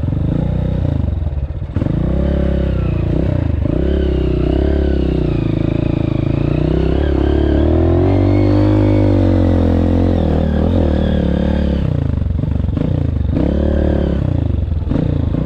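Honda CRF230F's air-cooled single-cylinder four-stroke engine revving up and down under the rider's throttle, its pitch rising and falling with each pull and climbing to its highest revs around the middle.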